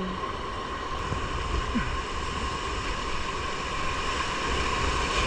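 Steady rush of whitewater in river rapids.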